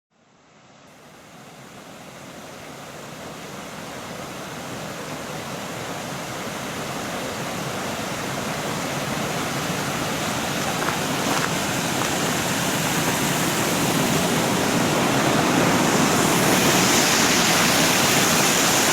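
Steady rushing noise that fades in from silence and keeps growing louder over the first several seconds, then levels off.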